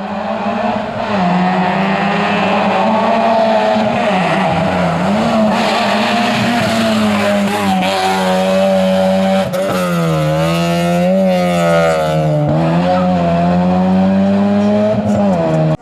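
Rally car engine held at high revs, its note dipping and rising again several times and wavering quickly up and down midway. Tyre noise runs under the engine.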